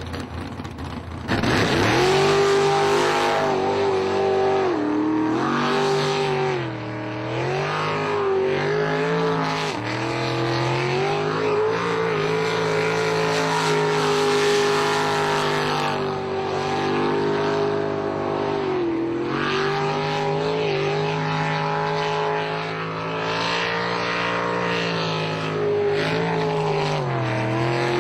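Motorboat engine speeding up from idle about a second in, then running at speed. Its pitch drops briefly and comes back up several times.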